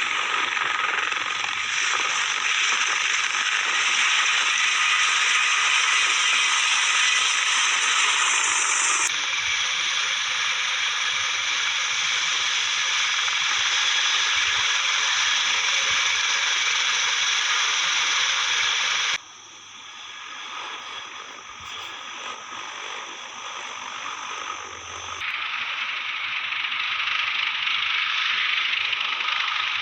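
Military helicopter rotor and turbine engine noise, a loud dense rattling roar. It cuts abruptly to a different recording about a third of the way in, again about two-thirds in where it turns quieter, and a few seconds later where it grows loud again.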